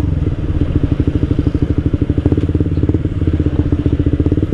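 Suzuki GSX-R150's single-cylinder engine running steadily through an aftermarket Akrapovic-style slip-on exhaust, an even, rapid pulsing exhaust note at constant revs that sounds mellow and very bassy.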